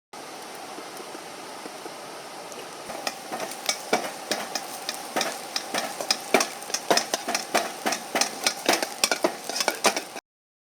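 Food sizzling in a Chinese wok, with a spatula striking and scraping the pan about three times a second from about three seconds in. The sound cuts off suddenly near the end.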